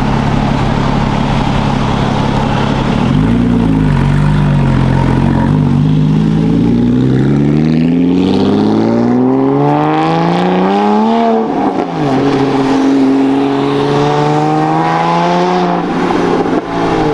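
A car engine idling, blipped once about three seconds in, then revved in a long steady climb that peaks and falls back suddenly about eleven seconds in. It is then held at a raised speed for a few seconds and dropped back near the end.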